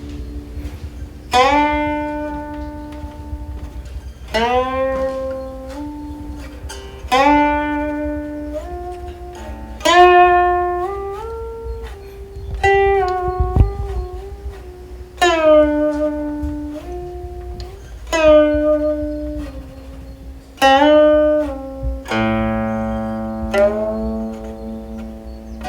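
Solo guqin (Chinese seven-string zither) playing a slow melody: single notes plucked about every three seconds, each ringing on while its pitch slides up or down.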